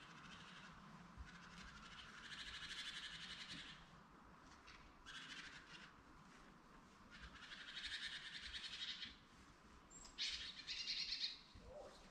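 Faint twittering of small birds in several short spells, with one brief high chirp, over a low steady hiss.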